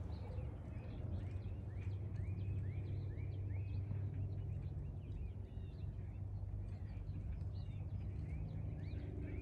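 Small birds calling around the pond: a run of short arched notes, each rising then falling, repeated about twice a second, with thinner high chirps scattered between them. Under it runs a steady low rumble.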